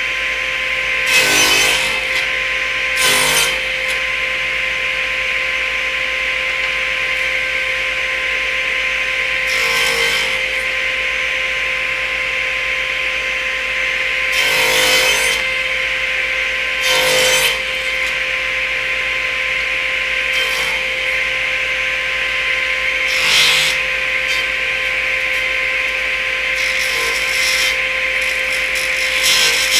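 Table saw running steadily, its blade cutting a walnut blank held in a jig on a crosscut sled, with about six short louder bursts of cutting spread through the run.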